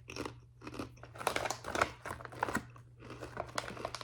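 Crisp potato chips being bitten and crunched, with the crinkle of the foil chip bag, in irregular bursts of crunching and rustling.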